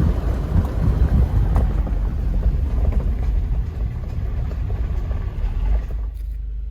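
Jeep Wrangler driving, heard from inside the cab: a steady low rumble of engine and road noise with scattered knocks and rattles. About six seconds in it changes abruptly to a smoother, steadier hum.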